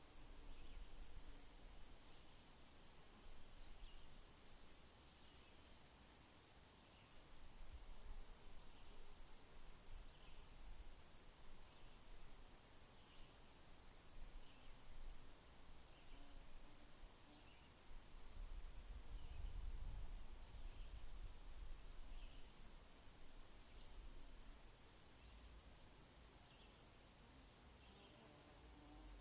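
Insects chirping faintly: a high, fast pulsing trill runs on with only brief gaps, while a second, lower chirp repeats about every second and a half. A low rumble rises and falls underneath, loudest about two-thirds of the way through.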